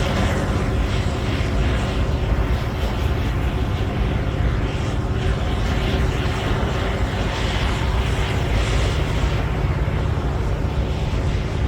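Caterpillar D9L bulldozer's diesel engine running steadily under load: a continuous low drone with irregular rattling over it.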